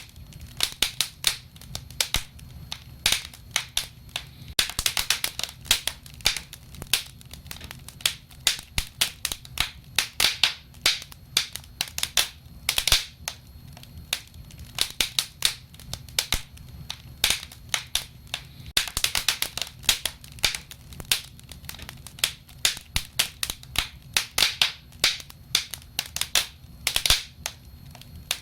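Wood fire burning, with irregular sharp crackles and pops over a faint low rumble of the flames.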